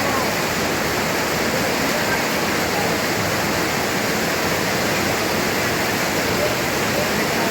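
Heavy rain pouring down, a steady, even hiss of water with no let-up.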